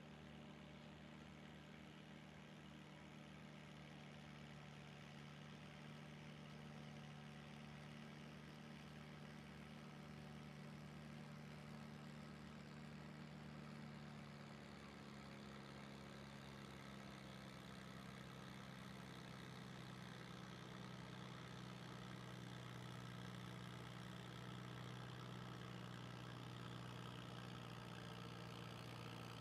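Faint engine idling steadily. Its pitch drops slightly about halfway through, and it grows a little louder towards the end.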